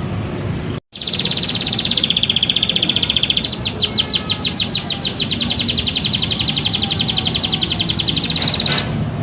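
A songbird singing a long, high, rapid trill from a birdsong training recording, cut off by a brief dropout just under a second in. About two and a half seconds in the trill changes into a fast run of short downward-sweeping notes, many per second, which lasts until near the end.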